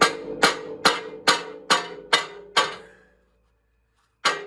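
Hammer blows on a steel part, about two a second, each ringing on after the strike. Seven blows, then a pause of about a second before the hammering starts again near the end.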